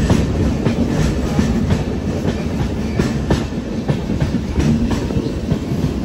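Passenger train running on the rails, heard from on board: a steady low rumble with frequent irregular wheel clicks and knocks.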